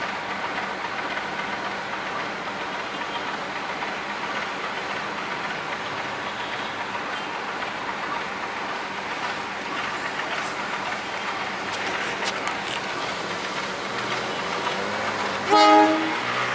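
A diesel-hauled passenger train standing at a station, with a steady drone of running machinery. Near the end the locomotive's horn gives one short blast, the loudest sound.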